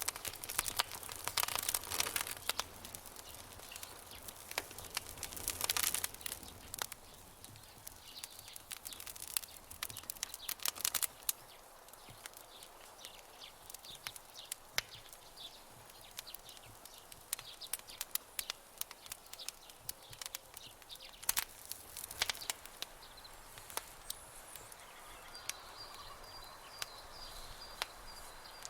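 Campfire crackling: irregular sharp pops and snaps from burning wood over a soft steady hiss, with denser bursts of crackles near the start and again a few times later.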